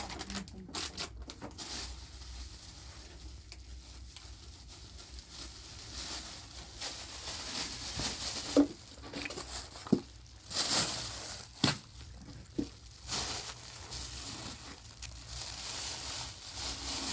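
Rustling, crackling handling noise with a few scattered knocks.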